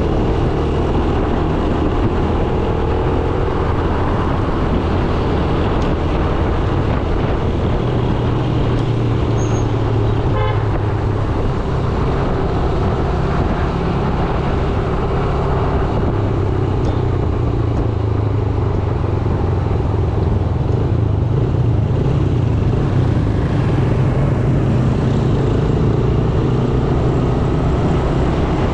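Yamaha YBR 125G's single-cylinder engine running on the move, its pitch rising and falling with speed, with wind noise and the traffic around it. Vehicle horns toot in the traffic, one about ten seconds in.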